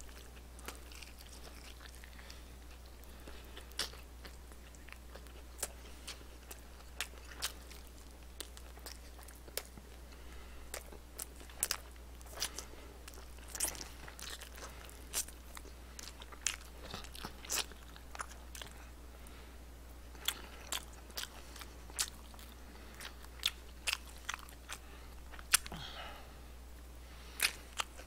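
Close-miked crunching and chewing of crispy fried chicken: irregular sharp crunches, sometimes a few in a second, over a faint steady low hum.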